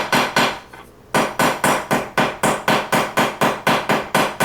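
A steady beat of sharp knocks, about four a second, each ringing off briefly, with a break of about half a second about a second in.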